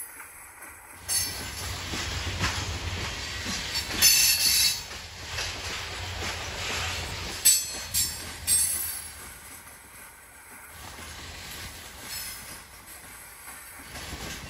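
Loaded coal hopper cars rolling past with a steady low rumble. Wheels squeal and clank sharply about a second in, loudest around four seconds, and again near seven and a half and eight and a half seconds, then the sound eases off.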